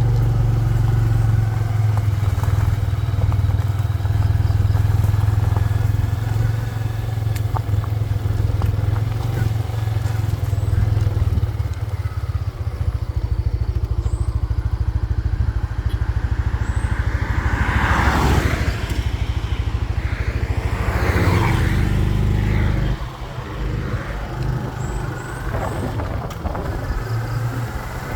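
Small motorbike engine running steadily under way, a low hum. About two-thirds of the way through there are two louder rushing swells, and a little later the engine drops to a quieter, lower note.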